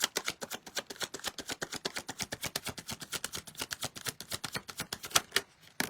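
Tarot deck being shuffled by hand, the cards slapping together in a fast, even run of clicks at about nine a second that stops shortly before the end.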